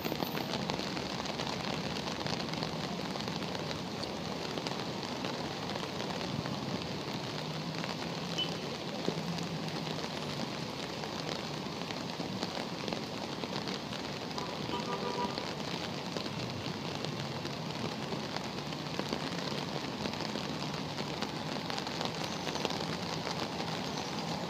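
Heavy rain falling onto a flash-flooded street and running floodwater, a steady, even hiss.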